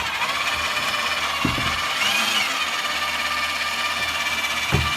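Electric winch motor running steadily under load, hoisting a jet ski engine out of its hull. A short low thump comes about one and a half seconds in and another near the end.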